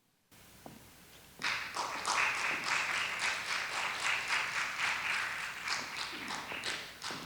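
A small group clapping for about five seconds between pieces. The clapping starts about a second and a half in and fades out near the end.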